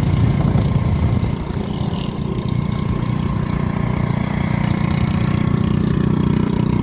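A vehicle engine running steadily, dipping briefly about a second and a half in before settling back to an even drone.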